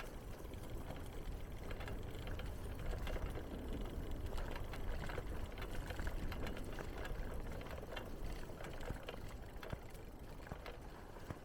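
Bicycle being ridden along a path: a steady low rumble of tyres and wind on the microphone, with scattered light clicks and rattles.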